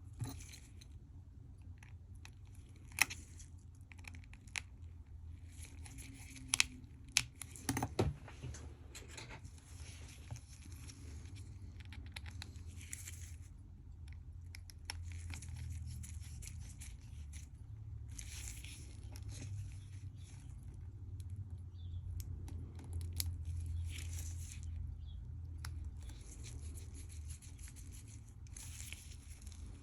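Small sharp clicks and light scraping and rustling from plastic watch parts being handled and fitted together by hand on a Casio F91-style digital watch, with a cluster of louder clicks about six to eight seconds in. A low rumble sits under it in the second half.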